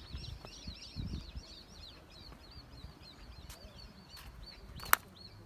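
A bird singing a rapid series of high, curved chirps, fading out about three seconds in. A sharp click near the end is the loudest sound.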